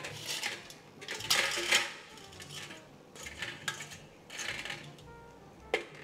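Metal utensils clinking and scraping against dishes in a kitchen, with scattered sharp clicks and a louder scrape about a second in.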